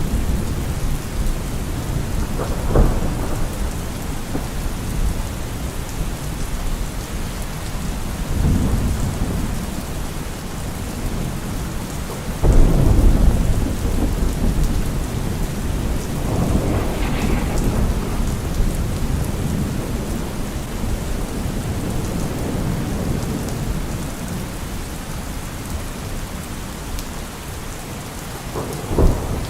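Heavy rain falling steadily on a car roof, with thunder rumbling several times: a loud rolling peal a little before halfway and a sharp clap right at the end.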